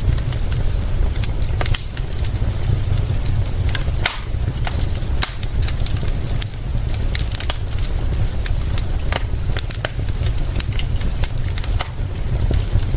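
Wood fire crackling, with frequent irregular sharp pops, over a steady low rumble and an even hiss of rain.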